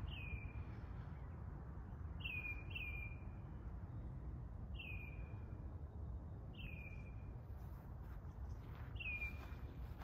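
A bird calling: a short, downward-slurred note repeated six times at uneven intervals, over a steady low background rumble.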